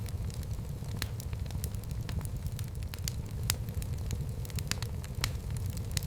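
Fireplace fire crackling, with frequent irregular sharp pops over a low steady rumble.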